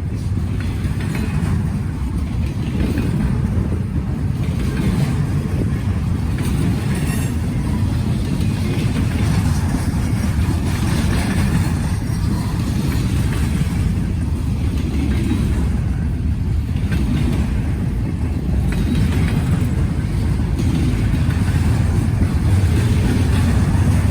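Long Norfolk Southern freight train rolling past, a steady low rumble of cars on the rails, with strong wind buffeting the microphone.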